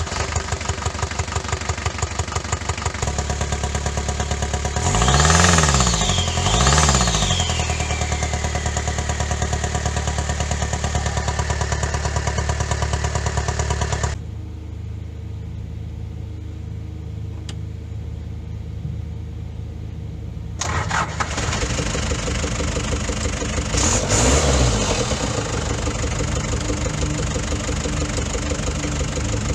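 Daihatsu Fourtrak engine running, blipped up twice in quick succession about five and seven seconds in and again near 24 seconds, with a quieter stretch in between. The owner notes a weird popping out the intake, which he puts down to far too much valve clearance.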